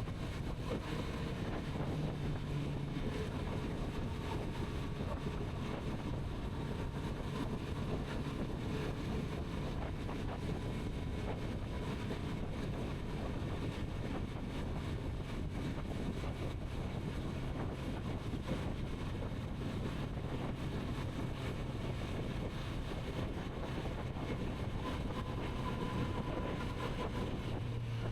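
Kawasaki Z900RS inline-four engine running at a steady cruise under heavy wind rush on the microphone. The engine note holds steady, settles to a lower pitch about halfway through and drops a little further near the end.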